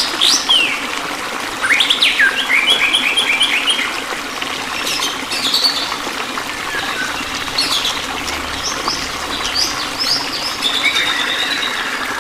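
Several songbirds chirping and singing, with quick runs of short notes and sharp upward-sweeping calls, over a steady rush of flowing water.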